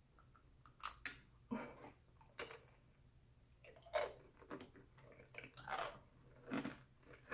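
A bite into candied strawberries on a skewer, then chewing through their hard sugar shell: a run of short, irregular crunches.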